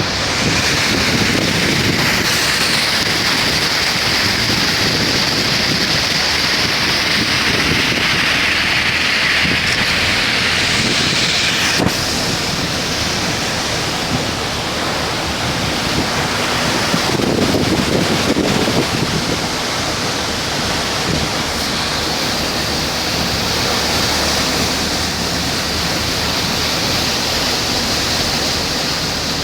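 Heavy rain pouring down in a steady loud rush, with a brighter hiss during the first dozen seconds that eases slightly after that.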